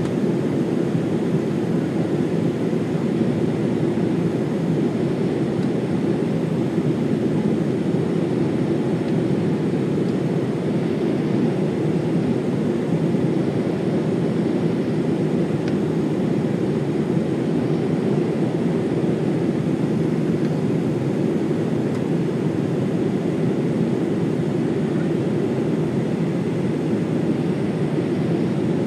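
Steady cabin noise of a jet airliner in flight: engine and airflow rumble, even in level throughout.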